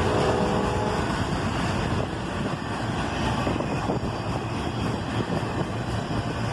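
Autorack cars of a freight train rolling past at speed, a steady rumble of wheels on rail with no distinct clicks or horn.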